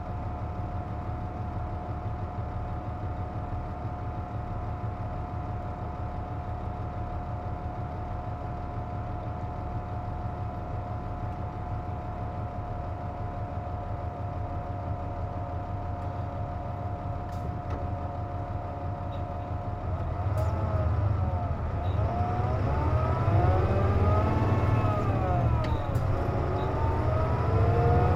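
Onboard a Nissan Diesel KC-JP250NTN bus with the air conditioning on: a steady whine over the diesel idle, the abnormal noise this bus makes with the cooling running. About twenty seconds in the bus pulls away, and the engine note rises and falls through the gears, growing louder.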